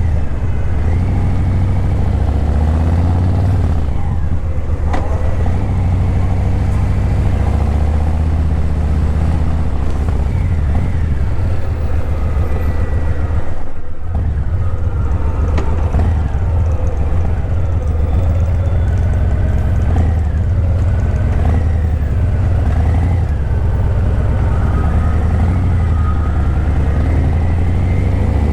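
Harley-Davidson Breakout 117's Milwaukee-Eight 117 V-twin running through Vance & Hines Eliminator 300 slip-on mufflers while riding, engine pitch rising and falling with the throttle, with a brief lull about halfway through.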